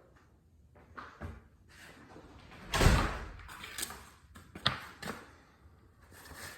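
Scattered knocks and clunks, about half a dozen, the loudest and deepest one about three seconds in.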